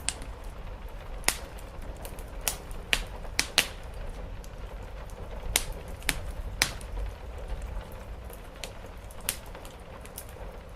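Wood fire crackling, with irregular sharp pops, about a dozen and mostly in the first seven seconds, over a steady low background of rain on a roof.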